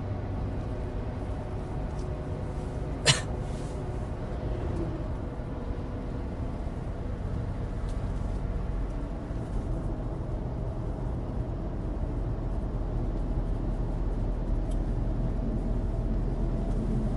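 Inside the cabin of a 2016 Suzuki Alto Turbo RS under way: steady engine and road noise from its 660 cc turbo three-cylinder and studless winter tyres on dry pavement, growing slightly louder near the end. There is a single sharp click about three seconds in.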